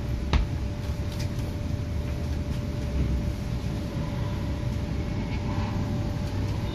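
MTR K-Train electric multiple unit standing at a platform with its doors open: a steady hum and rumble from the train and station, with a thin steady tone over it. A single sharp knock comes about a third of a second in.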